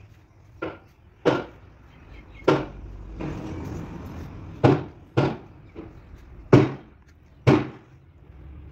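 A series of sharp knocks or bangs, about seven or eight, irregularly spaced and each dying away quickly.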